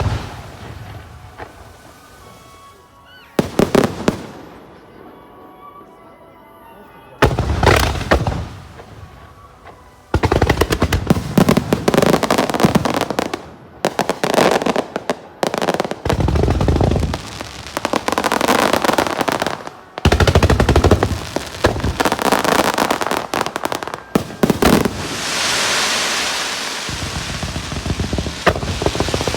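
Aerial firework shells of a starmine finale bursting close by. First come a couple of single booms a few seconds apart, then from about ten seconds in a dense barrage of rapid bursts and crackling with hardly a break.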